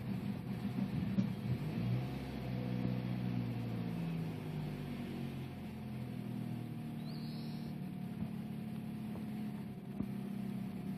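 Opel Astra GTC's Z18XER 1.8-litre four-cylinder petrol engine idling just after a start, heard from inside the cabin, its pitch wavering up and down. This is the after-start behaviour the owner treats as a fault.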